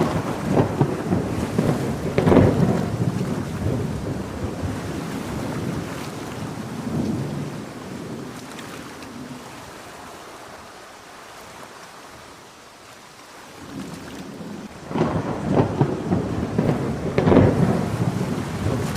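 Thunderstorm with steady rain and two rolls of thunder: the first crackles and rumbles in the first few seconds and dies away, and the second breaks about fifteen seconds in.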